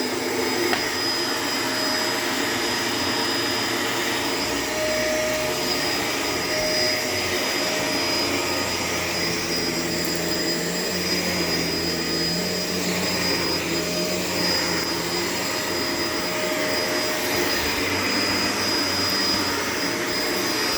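Shark LA702 Lift-Away upright vacuum cleaner running steadily while vacuuming the floor, its motor giving a constant rushing hum with a thin high-pitched whine on top.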